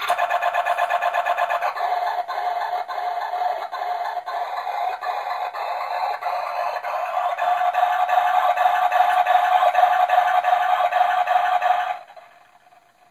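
Circuit-bent toy washing machine's sound chip playing a glitched, looping electronic sound through its small speaker: a rapid stutter of about seven pulses a second over a held mid-pitched tone. It cuts off suddenly about a second before the end.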